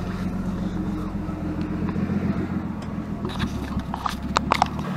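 Turbocharged BMW E46 325's M50B25 straight-six running at a steady engine speed, holding one pitch without revving. A few sharp clicks come near the end.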